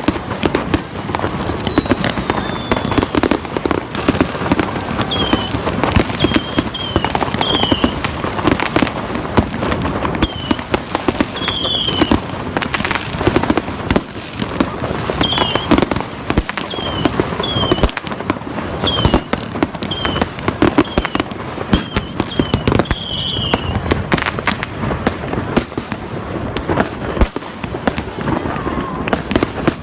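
Fireworks going off in a dense, continuous barrage of rapid bangs and crackling, with short high whistles that drop in pitch heard again and again through it.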